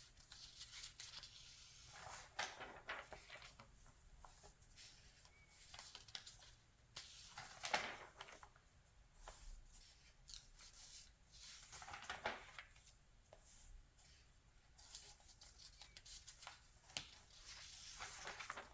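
Magazine pages being turned by hand: soft paper rustles with about four brisk swishes, one every four to five seconds.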